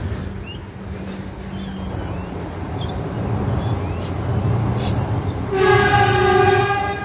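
Train passing with a steady low rumble; its horn sounds once, one steady note, for about a second and a half near the end. Birds chirp briefly in the background.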